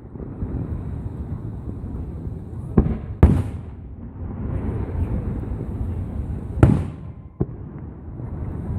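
Aerial fireworks bursting: two sharp booms close together about three seconds in and two more later on, over a continuous low rumble and crackle from the show.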